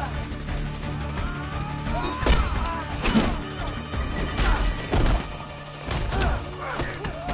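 Film fight-scene sound effects: a series of punches and kicks landing as heavy thuds and smacks, about five hard hits, over a music score.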